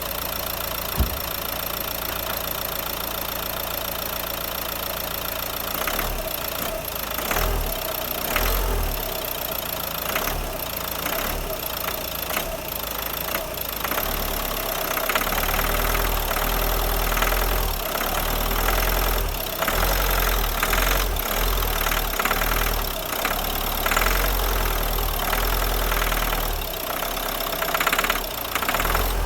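Renault 1.5 dCi four-cylinder turbodiesel idling, then revved in repeated blips from about six seconds in, with a knocking clatter on acceleration that the owner puts down to an injection fault. A single sharp click about a second in.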